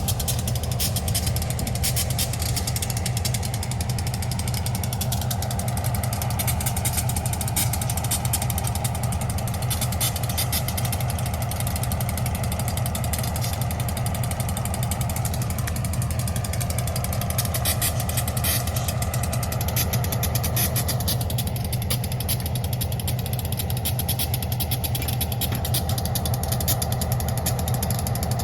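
Engine running steadily at a constant level, with a low, fast throb.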